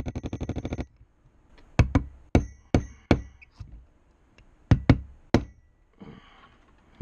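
Hammer blows on a brass punch, driving a new bearing onto the router's armature shaft: a quick run of light rapid taps, then about seven sharp ringing metal strikes in two groups.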